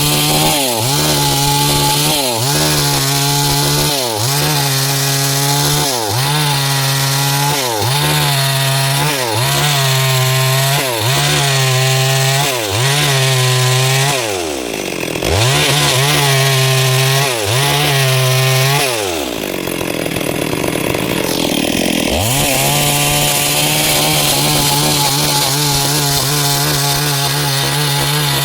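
Stihl MS 382 two-stroke chainsaw cutting wood at full throttle, its engine pitch dipping under load and recovering again and again, about once every second and a half. About two-thirds of the way through the revs fall to idle for a few seconds, then the saw revs back up and runs steadily.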